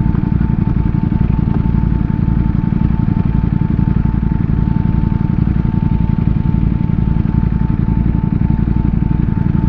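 Motorcycle engine running at a steady speed, a dense low rumble with no revving up or down.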